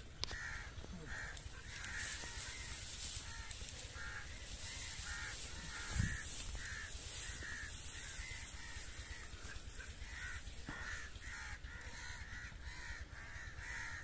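A bird calling over and over in short arching calls, about two a second, with a single low thump about halfway through.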